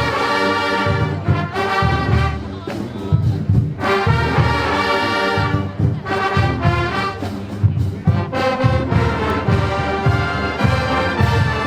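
Marching band playing: brass horns in loud phrases with short breaks, over a steady drum beat.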